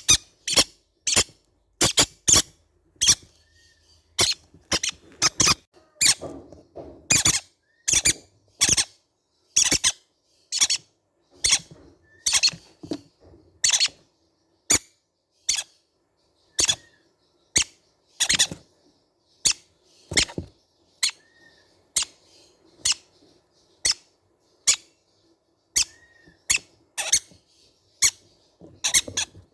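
Baby green-cheeked conures giving a long series of short, sharp, high-pitched squeaky calls, at about one to two a second at uneven intervals.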